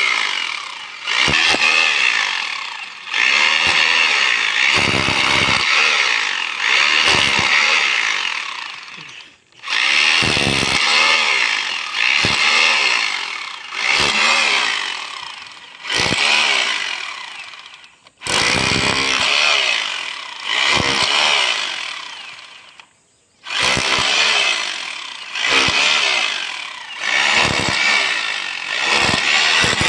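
1200-watt electric rotary hammer run in repeated short bursts, its trigger squeezed and released, the motor dying away between bursts, with longer pauses about 9, 18 and 23 seconds in.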